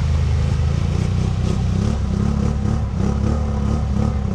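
Can-Am 1000's V-twin engine running at a fairly steady throttle, its pitch wavering slightly, with some light clatter.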